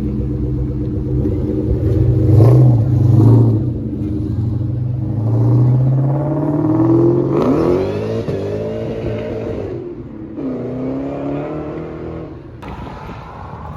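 Car engines running and revving: a loud rev about two and a half seconds in, then a rising pitch as a car accelerates away, and another shorter rise near the end.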